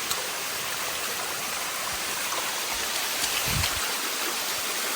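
Water of a limestone 'sticky' waterfall rushing steadily over the rock, with a few faint clicks and a low thump about three and a half seconds in.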